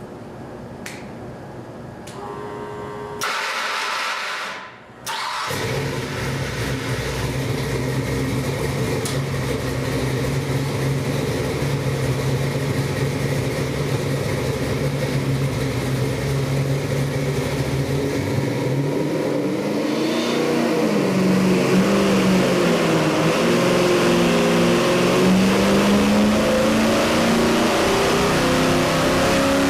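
Ford 408 Windsor stroker V8 crate engine on an engine dyno: cranked for about two seconds, it catches and settles into a steady idle. About twenty seconds in, the revs rise and fall, then climb steadily toward the end as the dyno run begins.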